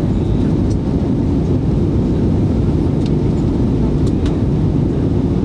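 Steady low rumble of airliner cabin noise, the engines and airflow heard from inside the passenger cabin, with a couple of faint clicks about three and four seconds in.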